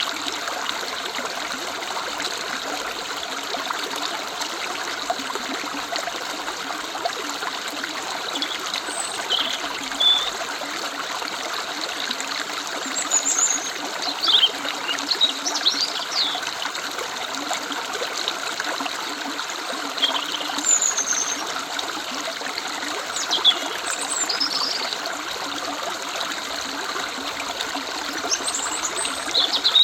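River water running in a steady rush, with short high bird chirps and trills scattered over it from about a third of the way in.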